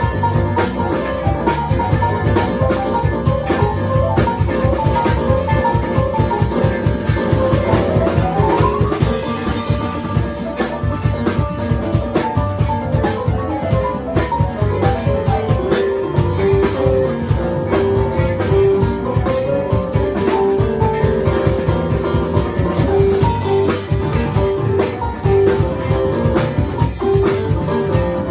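Live band playing an instrumental number over a steady, fast drum-kit beat, with melodic lead notes and one sliding rise in pitch about eight seconds in.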